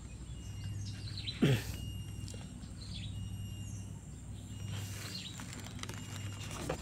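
Birds chirping and calling over a steady low background hum, with one brief, louder sound about a second and a half in that slides sharply down in pitch.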